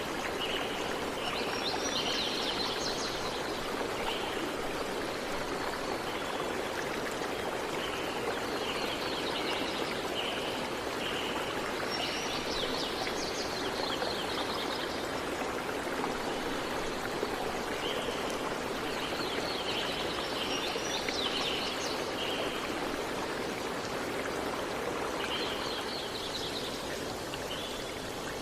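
Water running steadily in a stream, with a bird singing short high chirping phrases over it that return every several seconds.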